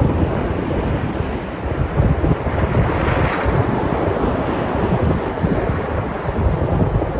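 Sea surf breaking on the shore, a steady wash of waves with one brighter breaking swell about three seconds in, and low rumbling wind buffeting on the microphone.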